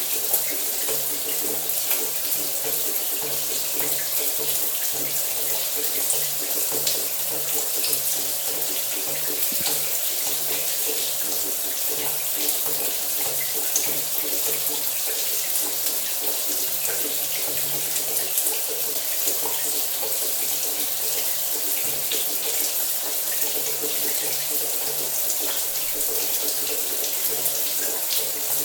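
Shower running steadily: a continuous hiss of falling spray with many small spatters and a faint low hum underneath.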